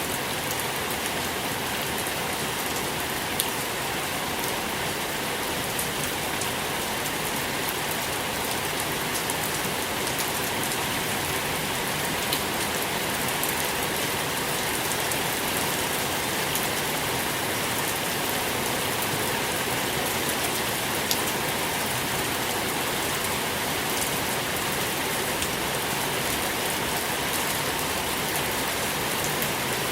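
Steady, even rainfall: a dense hiss of rain with scattered individual drops ticking sharply.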